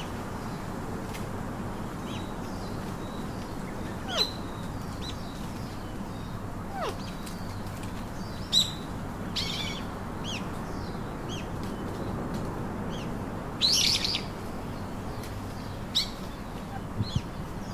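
Pet parakeets giving short, sharp calls every few seconds, each with a quick downward slide in pitch, the loudest pair about fourteen seconds in, over a steady background hiss.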